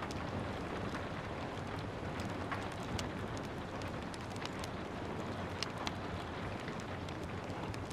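Steady rain falling, mixed with the crackles and pops of a wood fire. The pops come at irregular moments, with a few sharper ones about three seconds in and again near six seconds.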